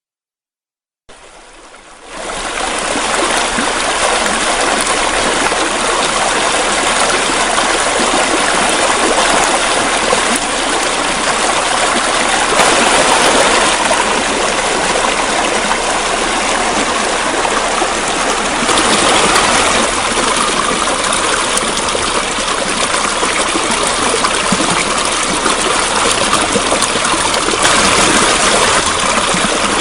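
Steady rushing of flowing water, like a stream, fading in from silence about a second in and then running evenly.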